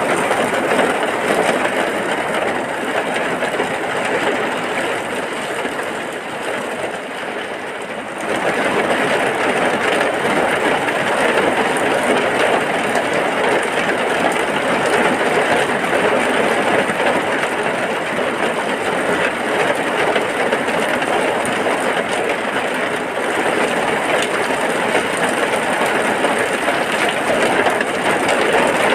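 Heavy rain falling steadily, a dense even hiss that eases a little and then comes back full about eight seconds in.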